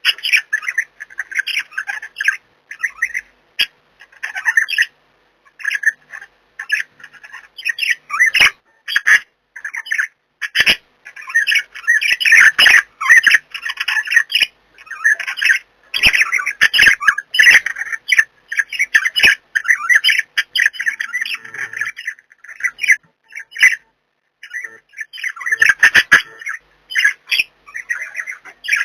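Pet budgies chattering and squawking in rapid, broken bursts, with a few sharp clicks mixed in and a brief pause about three-quarters of the way through.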